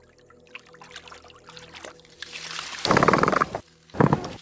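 An animal call after about two seconds of quiet: a rough, pulsed call a little under a second long, then a shorter one near the end.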